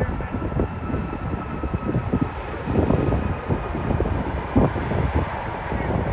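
Wind buffeting the microphone over the steady noise of a jet airliner's engines, with a faint high whine throughout.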